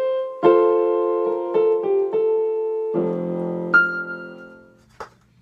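Piano music on an electric keyboard: a short run of notes ending on a held chord that fades out about four and a half seconds in, followed by a small click.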